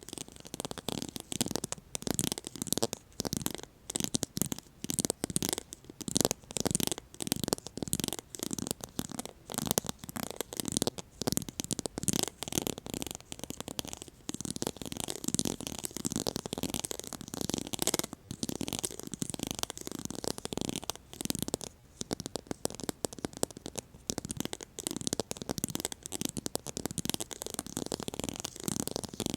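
ASMR trigger sounds from a cubic plate being scratched and tapped: a steady run of quick, irregular scratchy strokes.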